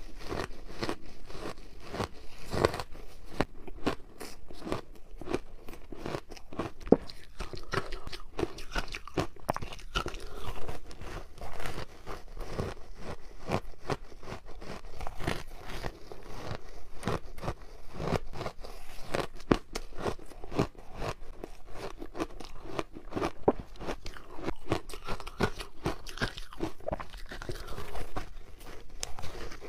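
Teeth biting and crunching frozen matcha ice, with dense, irregular crackling snaps and chewing throughout.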